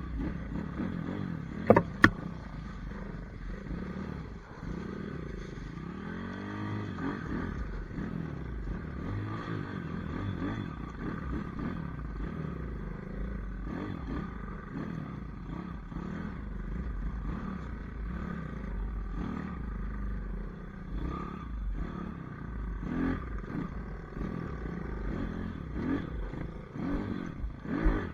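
Pit bike engines running, their pitch rising and falling as the throttle is opened and closed. Two sharp knocks come about two seconds in.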